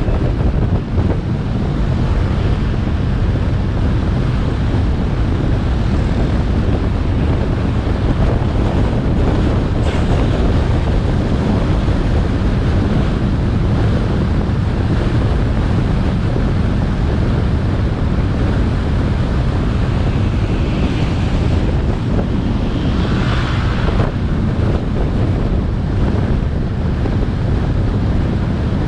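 Wind buffeting the microphone of a camera on a moving motorbike, a steady heavy rush over the bike's engine and tyre noise. A brief hissier rise comes a little over two-thirds of the way through.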